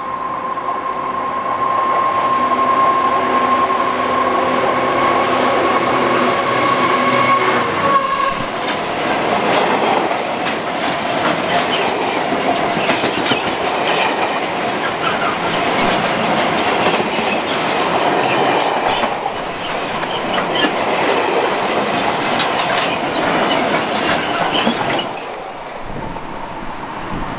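Class 66 diesel locomotive with an engineers train of box wagons passing close by: a steady engine note for about the first eight seconds, then the wagons rumbling and clattering past with wheel clicks over the rail joints, dropping away near the end as the last wagon goes by.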